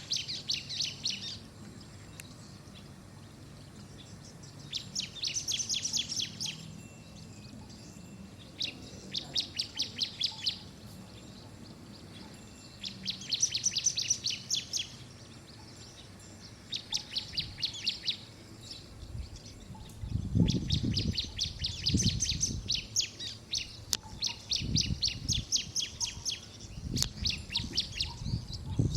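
Bar-winged prinia singing: bursts of rapid, high chirping notes, each a second or two long, coming every few seconds and nearly continuous in the second half. Low rumbling thuds run underneath in the second half.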